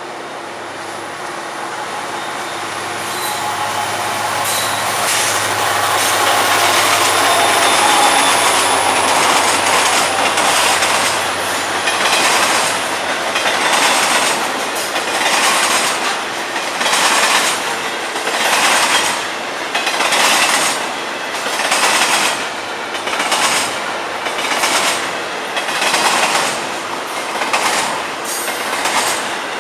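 Florida East Coast freight train passing: a steady engine drone that builds over the first several seconds and fades, then a long string of freight cars rolling by, their wheel clatter swelling in a regular rhythm about every second and a half.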